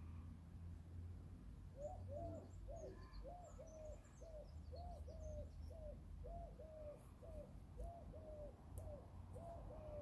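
A bird calling a long, even run of short hoot-like notes, about two a second, starting about two seconds in, with faint high chirps of a small bird over the first few seconds.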